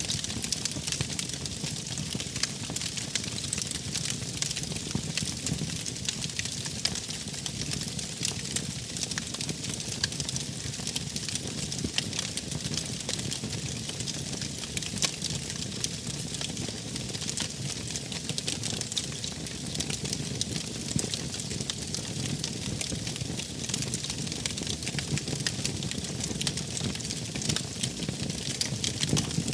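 Wood fire burning in a fireplace, crackling steadily with many small pops and snaps over a low rumble and hiss.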